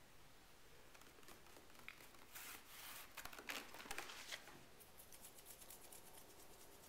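Faint rustling and crinkling, with a few louder rustles between about two and four and a half seconds in, then light rapid ticks.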